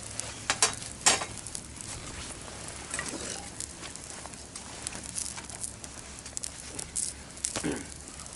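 Wood fire crackling in a campfire pit, with two sharper cracks about half a second and a second in.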